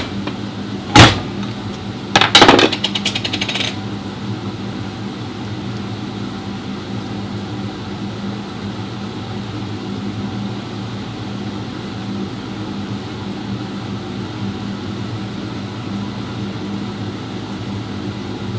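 Metal parts clinking and rattling in quick succession during differential teardown work, followed by a steady low mechanical hum.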